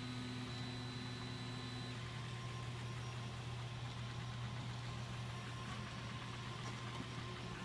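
Home-built HyperCube CoreXY 3D printer running: a steady low hum with thin whining tones. One high whine stops about two seconds in and a lower whine carries on after it.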